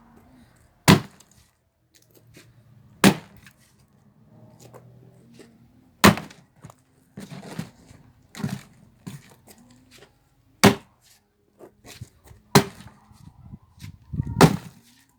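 Axe blows splitting firewood logs: six sharp strikes a few seconds apart, with smaller wooden knocks between them.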